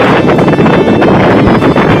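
Strong wind of 15–20 m/s buffeting the microphone: a loud, constant rush broken by many short crackling gusts.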